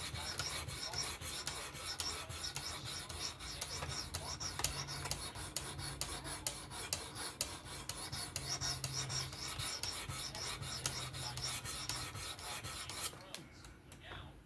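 Diamond abrasive plate of a fixed-angle knife sharpener stroked back and forth along a knife's edge: a steady run of rasping strokes that stops about a second before the end.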